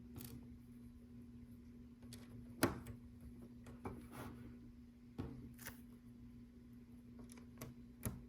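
Small plastic LEGO pieces clicking and tapping as they are sorted and pressed onto the plates: scattered light clicks, the sharpest about two and a half seconds in, over a faint steady hum.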